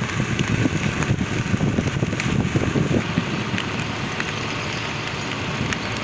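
Wind buffeting the microphone over the steady road and engine noise of a Hero Pleasure scooter on the move.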